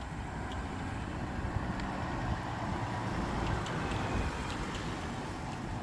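A motor vehicle driving past, its engine and tyre noise swelling near the middle and then fading, over a steady low traffic rumble.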